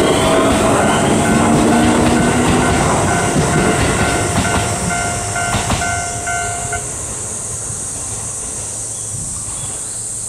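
Keio Line electric train passing over a level crossing, its running noise loud, while the Japanese crossing warning bell rings about twice a second. The bell stops about seven seconds in and the train noise falls away.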